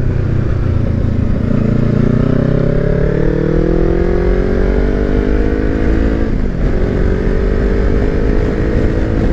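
Kawasaki Versys X300's parallel-twin engine pulling away and accelerating, its pitch rising for several seconds. There is a short break about six and a half seconds in as it changes gear, then it runs on steadily. Heavy wind rumble on the helmet microphone runs underneath.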